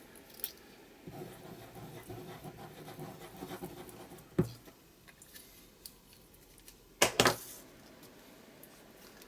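Paper rustling and scratching as cut-out paper pieces are handled on a journal page, with a sharp tap about four and a half seconds in and a louder double click about seven seconds in.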